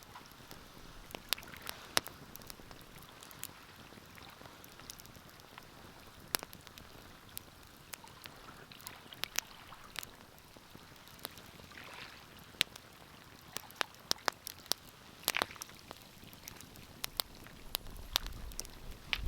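Wood fire crackling in a fireplace: irregular sharp pops and snaps over a soft steady hiss of burning, with a few louder pops and a low rumble near the end.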